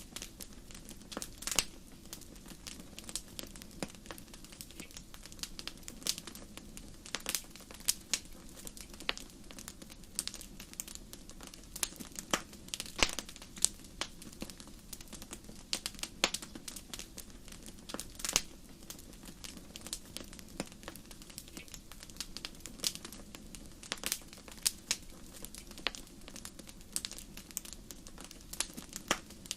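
Wood fire burning in a fireplace, crackling with irregular sharp pops and snaps over a low, steady rush of flame.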